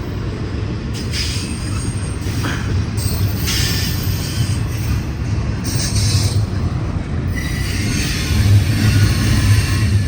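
Union Pacific double-stack intermodal freight cars rolling past with a steady low rumble. High-pitched wheel squeal rises and fades several times, loudest near the end.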